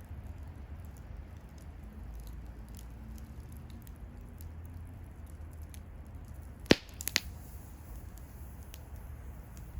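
Wood campfire crackling with scattered faint ticks, and a sharp loud pop about two-thirds of the way in, followed closely by two smaller pops.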